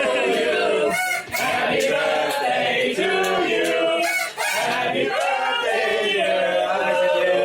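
A group of people singing loudly together in chorus, many voices at once with long, sliding notes.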